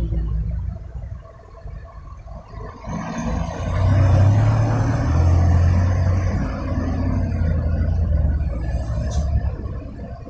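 Heavy coal truck's diesel engine running, growing louder about three seconds in and staying loud for most of the rest.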